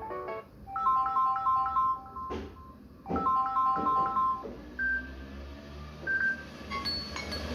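A phone ringtone melody from a smartphone's loudspeaker: a short phrase of clear electronic notes plays twice, with a click between the two phrases, followed by a couple of single higher beeps.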